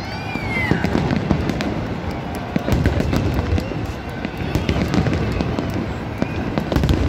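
Large fireworks display: dense, continuous crackling and popping of bursting shells over a steady low rumble of booms. A short falling whistle sounds at the very start.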